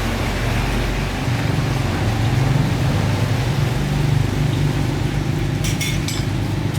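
Steady low machine hum, with a few short, sharp clicks or scrapes about five and a half to six seconds in.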